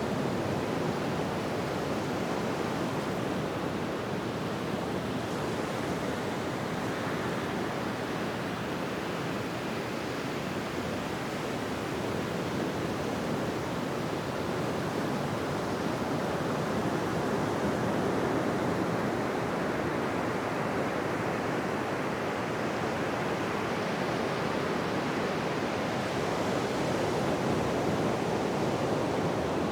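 Ocean surf washing on a beach: a steady rushing wash of waves that swells and eases slowly.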